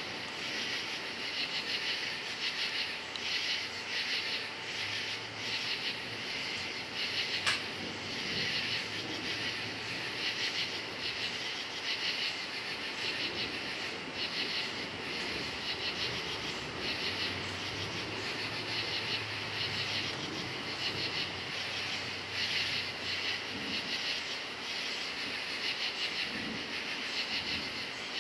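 Crickets chirping in a dense, steady chorus that pulses evenly, with the low rumble of distant thunder swelling and fading underneath. There is a single sharp click about seven seconds in.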